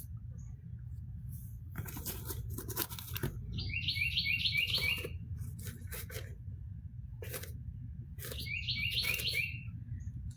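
A bird calls twice, each call a quick run of about five short chirps falling in pitch, over scattered rustling and scraping noises and a steady low rumble.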